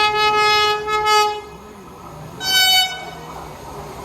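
Train horn sounding: a long blast that dips briefly about a second in, then a shorter, higher-pitched blast about two and a half seconds in, over the low rumble of the train.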